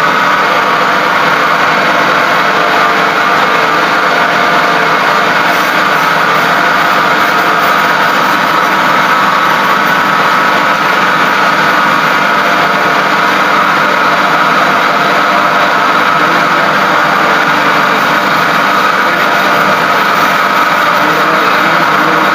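A machine running steadily, a continuous even mechanical drone with no breaks or knocks.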